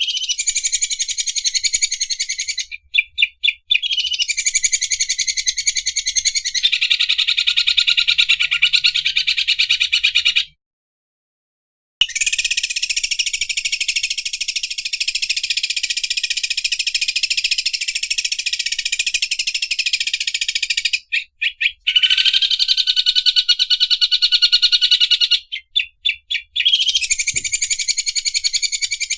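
Cucak ijo (greater green leafbird) singing long runs of a fast, buzzing rattle of rapid high notes, the song style named after an overlock sewing machine ("mesin obras"). The rattle breaks off briefly a few times and stops dead for about a second and a half a third of the way in.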